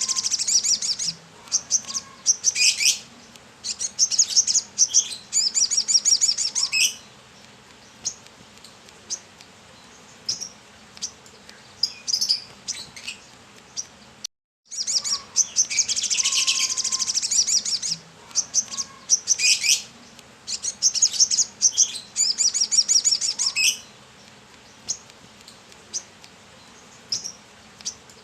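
Brown-throated sunbird singing: a fast, dense, high twittering song for about seven seconds, then scattered single chirps. After a brief gap about halfway through, the same passage repeats.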